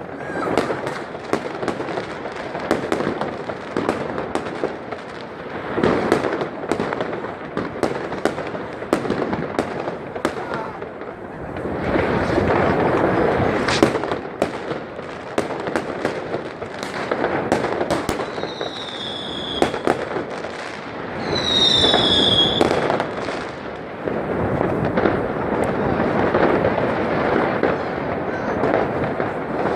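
Many fireworks and firecrackers going off continuously: a dense stream of bangs and crackling. A little past the middle come two high whistles falling in pitch.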